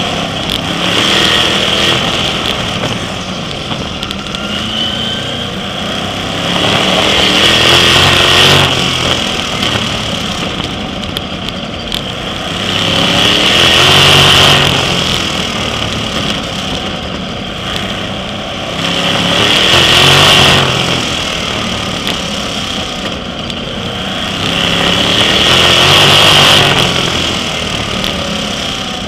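Sprint car V8 engine running at race speed, swelling to a peak and easing back in a regular cycle about every six seconds as the car works around the oval.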